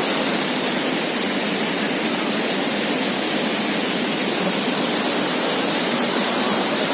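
Lodh Falls, a tall waterfall, with its water falling from high above in a steady, loud rush of noise.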